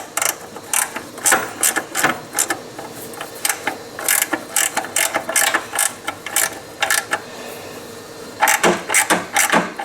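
Hand ratchet clicking in short, irregular runs as bolts are run in on a CVT clutch housing, with a few louder clicks near the end.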